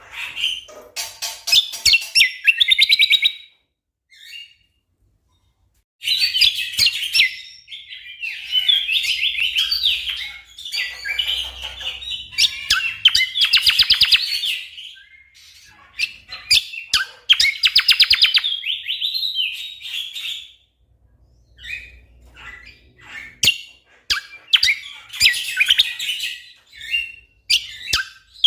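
Cucak kombo (kecial kombo) songbird singing in dense bursts of very fast repeated notes and trills. It stops for about two seconds a few seconds in, then sings almost without a break.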